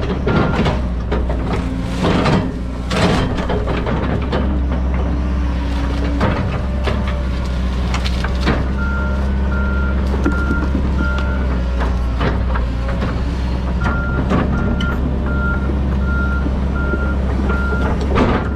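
John Deere 130G excavator's diesel engine running steadily under work, with its travel alarm beeping at a little under two beeps a second in spells, a sign the machine is tracking. Sharp cracks and knocks break in, the loudest a couple of seconds in.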